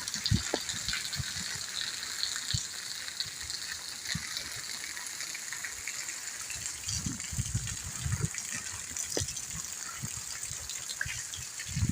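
Steady rain with a continuous hiss of falling and running water, broken by irregular low thumps, several together about seven to eight seconds in.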